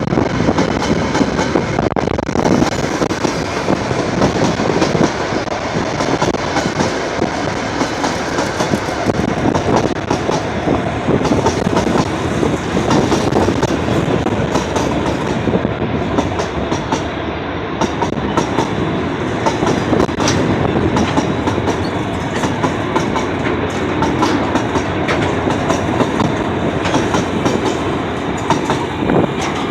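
Freight train wagons rolling past close by: wheels clattering over the rail joints in a continuous clickety-clack, with steady rumbling and metallic rattling.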